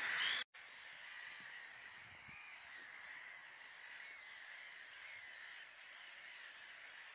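Birds calling repeatedly over faint open-air lakeside ambience, loud for the first half second, then distant after a sudden brief drop.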